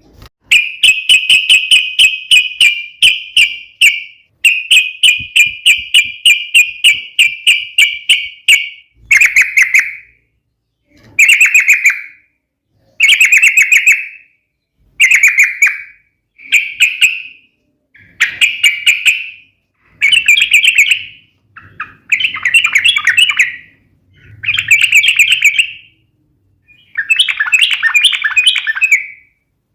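Yellow-vented bulbul (trucukan) calling in sharp, rapid 'fighting' notes: two long runs of about seven notes a second in the first nine seconds, then short chattering phrases about every two seconds.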